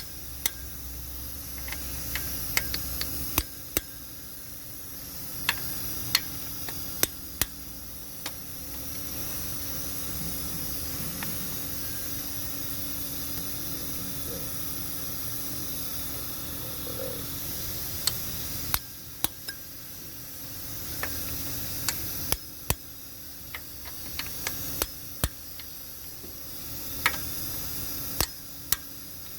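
Sharp metallic clicks at irregular intervals, some in quick pairs, over a steady hiss: a click-type torque wrench tightening the cylinder head bolts to their first step of 36 N·m.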